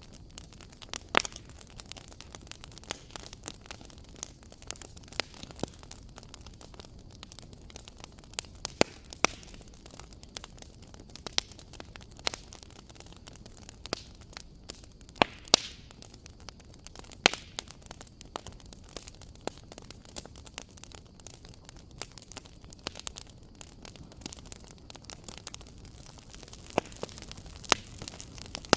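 Wood fire crackling in a fireplace: a steady low hiss with irregular sharp snaps and pops, a few of them louder.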